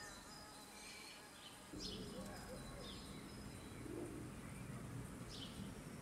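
Faint outdoor ambience: a few short, high, falling bird chirps over a low steady hum that grows louder about two seconds in.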